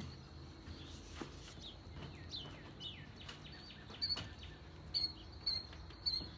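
Wild birds singing: a few quick falling notes, then a run of short high chirps repeated in the second half. A few faint knocks come from cardboard boxes being handled.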